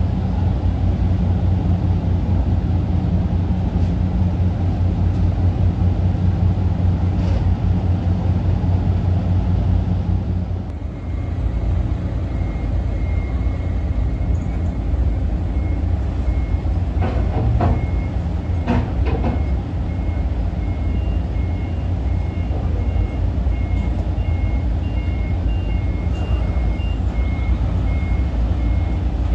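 Steady low engine rumble of high-speed ferries. From about twelve seconds in, an electronic warning beep repeats at an even pace, with a second, higher beep joining it for a few seconds. A few short knocks come in the middle.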